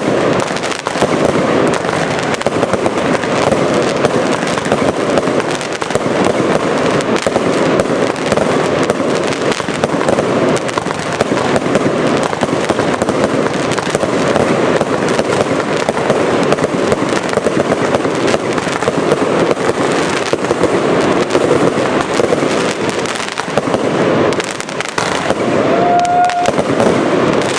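Consumer fireworks going off in a dense, unbroken crackle of rapid reports, with a short lull near the end.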